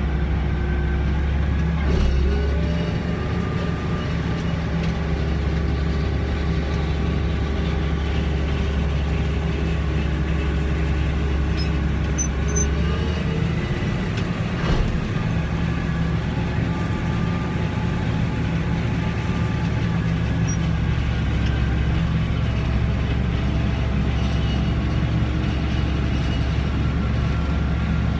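Farm tractor engine running steadily under load while pulling a grain cart through a corn field, a constant low drone, with a couple of brief knocks, one about two seconds in and one about halfway through.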